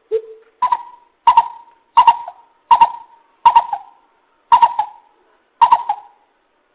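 Greater coucal (bìm bịp) lure call: a series of eight short hoots about two-thirds of a second apart, the first one low and the rest about twice as high.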